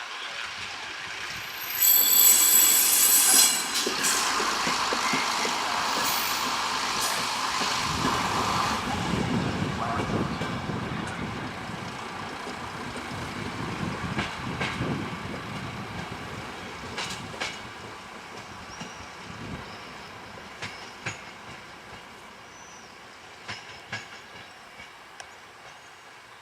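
A train running along the station tracks: a brief high-pitched wheel squeal about two seconds in, then a rumble that slowly fades as it moves away, with scattered clicks from the wheels on rail joints.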